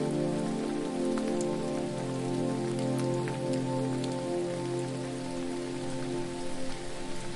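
Steady hiss of falling water with scattered drop ticks, over a soft ambient music pad of held chords that changes chord every couple of seconds.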